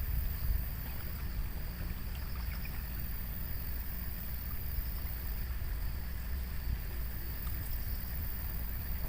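Steady outdoor ambience by the river: a low rumble of wind on the microphone, with a faint high hiss above it.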